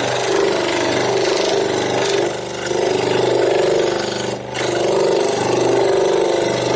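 An electric power tool running while it works wood, a steady motor hum with cutting noise that swells and eases every second or so as the load changes. The sound drops out for a moment about four and a half seconds in.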